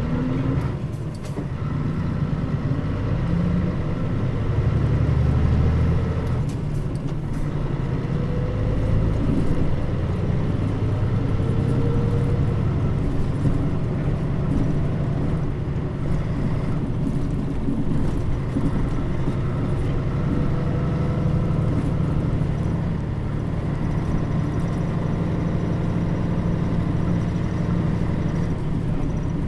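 Mitsubishi Fuso Aero Star bus's diesel engine running as the bus drives, a steady low drone with road noise. It rises in pitch at the start and breaks briefly for gear changes about one and seven seconds in.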